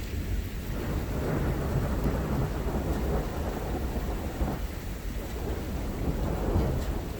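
Rolling thunder rumbling low through steady rain, swelling about a second in.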